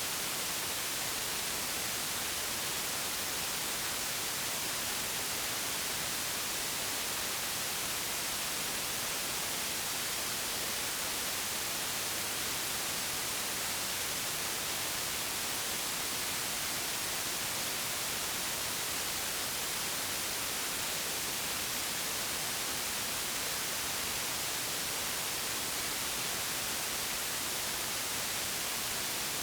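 Synthetic white noise: a steady, even hiss with the most energy in the high frequencies, unchanging throughout.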